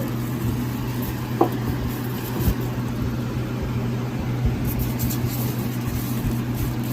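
Steady low hum, with a short click and a light knock from a subwoofer being handled and moved aside.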